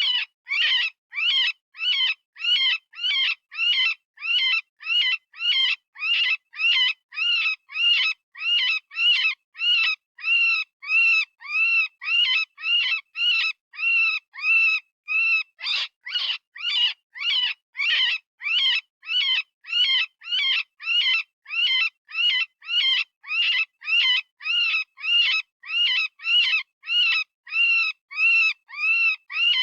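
Software-generated rabbit distress call, the high-pitched screaming cry used for predator calling. Short arched cries, each rising and falling in pitch, repeat about twice a second with brief gaps between them.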